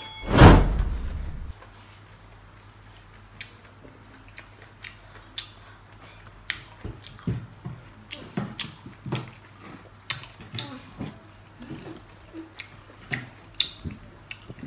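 A man biting and chewing pieces of pineapple, with irregular wet smacks and crunches. A loud rushing burst fills the first second and a half.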